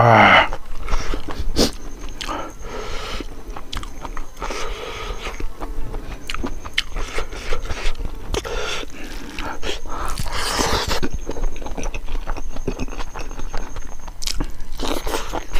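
Close-up eating sounds of chicken gizzard curry and rice: wet chewing, lip-smacking and mouth clicks, with a louder rush of breath or slurp near the start and again around ten seconds in.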